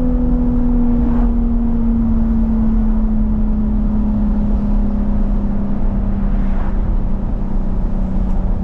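Jaguar F-Type S's supercharged 3.0-litre V6 running at a steady light load, its engine note slowly sinking in pitch as the revs ease off, over a low road rumble.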